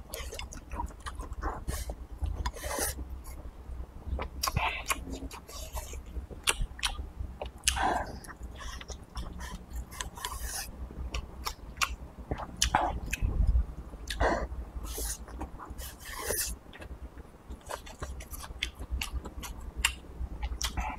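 A person eating with chopsticks, chewing mouthfuls of stewed lamb and rice, in many short, wet mouth clicks and smacks.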